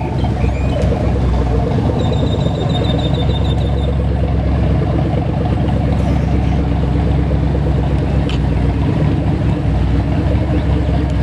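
Engine of a matte grey mid-engined supercar running at low speed, a steady low rumble as it rolls slowly past and into a parking space. About two seconds in, a quick series of high beeps sounds briefly.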